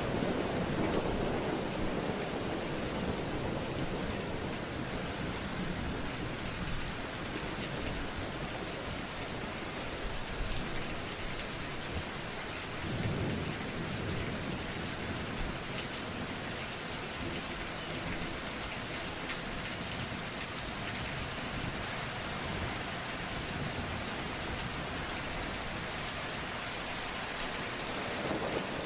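Steady rain falling, with low rolling rumbles of thunder swelling at the start, about thirteen seconds in, and again near the end.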